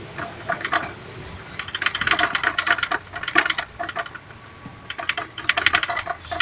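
Nissan Primera P12's radiator clattering metallically against its mount in quick bursts of rapid clicks. This is the metallic knock that the owner traced to the radiator mount's rubber bushings.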